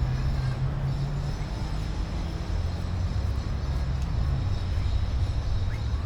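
Street traffic: a motor vehicle's engine makes a steady low rumble, and its hum drops a little in pitch about two and a half seconds in.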